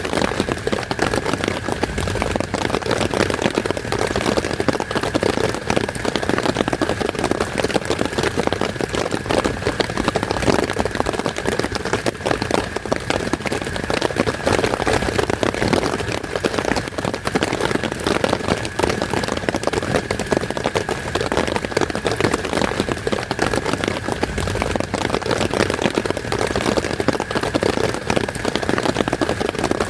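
Heavy rain falling steadily, a dense unbroken patter of countless drops.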